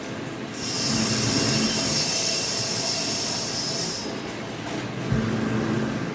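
Plywood-mill machinery running with a steady rumble. A loud, high hiss starts about half a second in and cuts off after roughly three and a half seconds, and a single low thump comes near the end.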